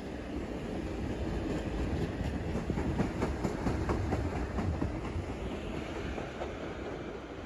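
Long Island Rail Road electric multiple-unit commuter train running past close by, its wheels clicking rhythmically over rail joints over a steady rumble. The sound builds to its loudest about three seconds in, then fades as the last cars go by and the train draws away.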